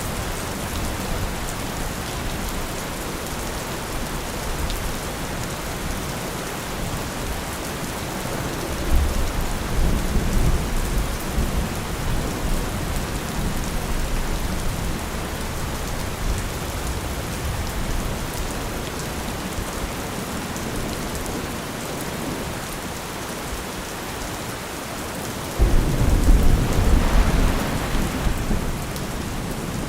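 Steady rain falling on a surface, with distant thunder rumbling low twice, the second rumble starting suddenly near the end and louder than the first.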